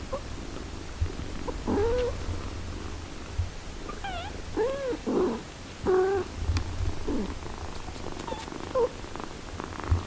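A mother cat purring steadily in a low, continuous rumble, while her six-day-old kittens give about eight short mews that rise and fall in pitch.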